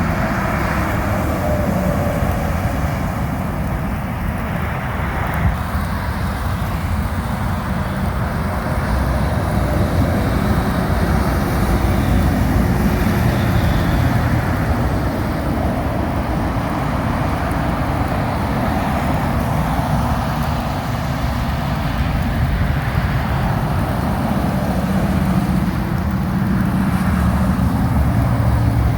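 Steady highway traffic with semi-trucks going by: tyres hissing on the wet road over the low rumble of diesel engines, the rumble growing a little stronger near the end.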